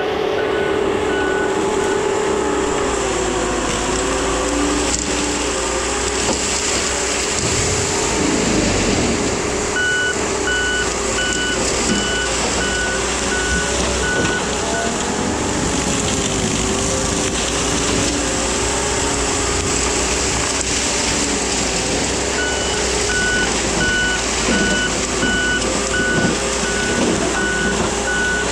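Case skid steer running steadily with its Shearex forestry mulching head, a constant machine drone. Its backup alarm beeps in an even series at the start, again from about a third of the way in, and again near the end, as the machine reverses.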